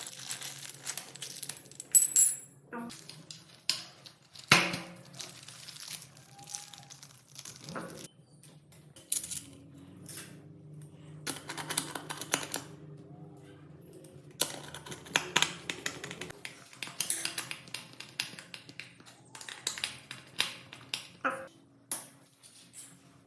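Irregular clicks, taps and light metallic clatter of small hard parts being handled, with a few short scrapes and a faint steady hum underneath.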